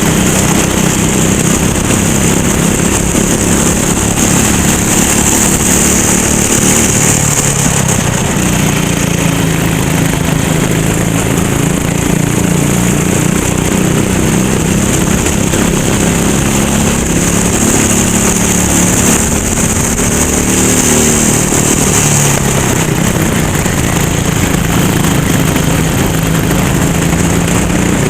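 Racing kart engine running hard under load, its note rising and falling several times as the throttle opens and closes through the corners.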